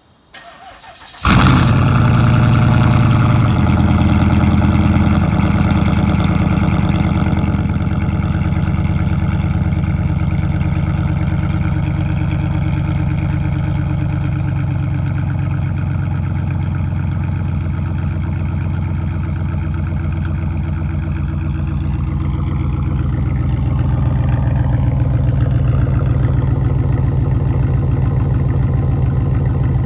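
Straight-piped LS4 5.3-litre V8 in a 2006 Chevrolet Impala SS, muffler and resonator deleted, cranking briefly and catching on a cold start about a second in. It flares up, eases down a few seconds later and settles into a steady, loud fast idle.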